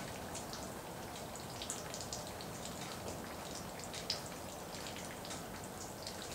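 Rain falling: a steady hiss with irregular close drops ticking, the sharpest about four seconds in.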